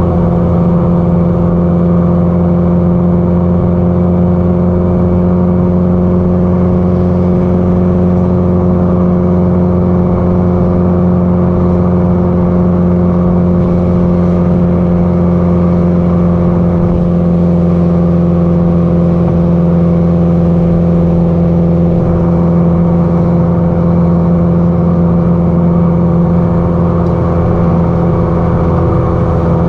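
Subaru Impreza GDB-E WRX STI's turbocharged flat-four engine and exhaust at a steady cruise, the engine note holding an almost constant pitch.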